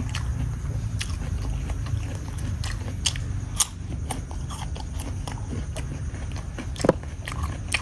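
Close-up biting and chewing of crisp raw fruit: a run of irregular crunches, with one sharper crunch near the end, over a steady low rumble.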